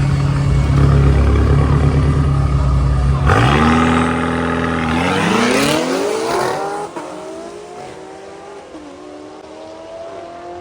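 V8 drag cars at full throttle, loud at first, then pulling away: the engine pitch climbs and drops back at each gear change as they fade into the distance.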